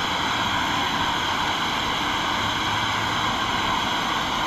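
River water rushing past steadily.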